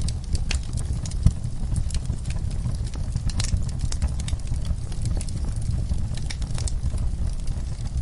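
Wood fire crackling: irregular sharp pops and snaps over a steady low rumble, with one louder pop about a second in.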